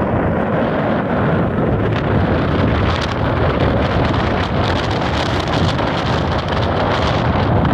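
Strong wind buffeting the microphone: a loud, steady low rumble, with more hiss and crackle for a few seconds in the middle.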